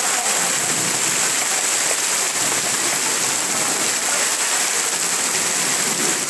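Heavy tropical downpour pouring steadily, a dense, even hiss of rain.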